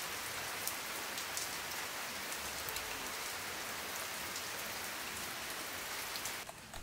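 Steady rain falling, an even hiss with scattered individual drops ticking through it; it drops away just before the end.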